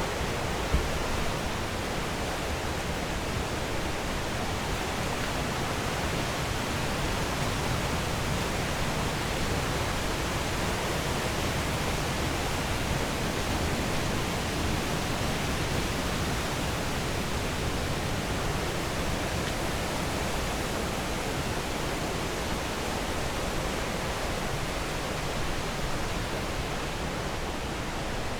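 Steady rushing of flowing water, an even hiss with no change, with one brief click about a second in.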